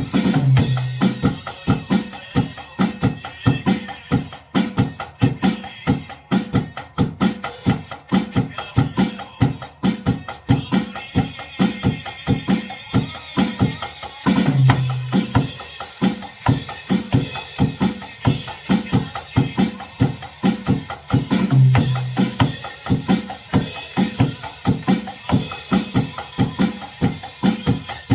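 Drum kit played in a steady beat along with the recorded backing track of a Korean gospel pop song, with bass drum, snare and cymbals over the band music.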